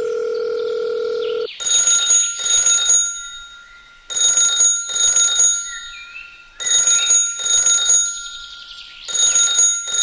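A steady beep for about a second and a half, then a telephone bell ringing in double rings, two short rings at a time, with a pair about every two and a half seconds.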